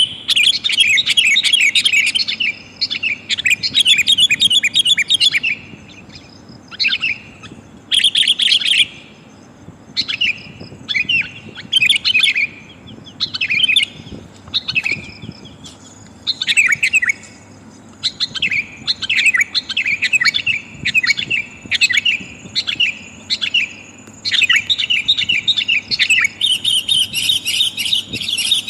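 Sooty-headed bulbul (kutilang) calls, given by the uploader as a female calling to males: rapid chattering bursts, dense at the start, about eight seconds in and again near the end, with shorter scattered calls between.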